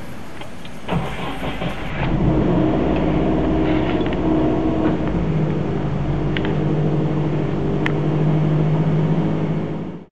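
Car engine starting about a second in, then running with a loud, steady note that cuts off suddenly at the end.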